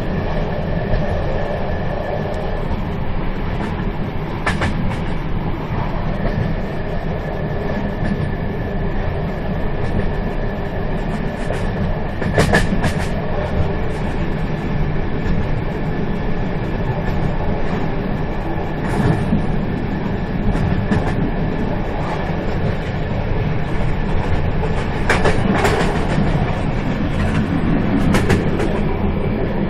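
A moving train running steadily: a continuous low rumble with a faint steady high whine. A few sharp wheel-on-rail clacks come several seconds apart.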